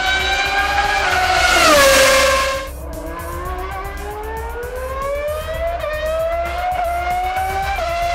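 Race car engine sound effects revving and accelerating, the pitch climbing steadily. About two seconds in, one car gets louder and its pitch drops as it passes, then the engines climb again. Light background music plays underneath.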